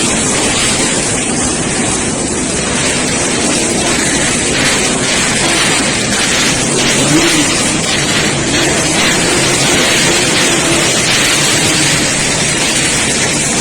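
Many Yamaha RX-King two-stroke motorcycles running together on a ship's deck, a loud, dense and continuous engine din.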